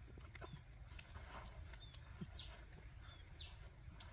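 Faint birds chirping, a few short high calls, over a low steady rumble with scattered small clicks.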